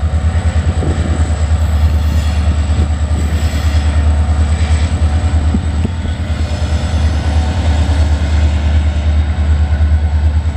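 Norfolk Southern local freight train rolling past in reverse, its railcars shoved by the locomotive, giving a loud, steady low rumble with a rapid pulsing to it.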